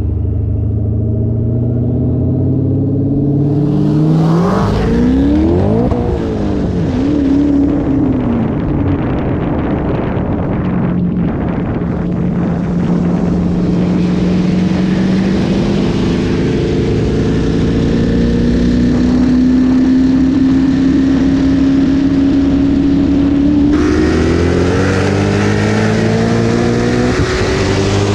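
Modified high-performance V8 cars accelerating hard in a roll race. The engine note dips and sweeps back up about five seconds in, then climbs long and steadily in revs. Near the end the sound changes abruptly and the pitch dips and climbs again.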